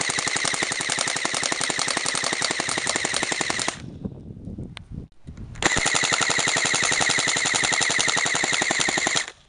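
Airsoft AK-47 firing on full auto in two long bursts, with a break of about two seconds between them.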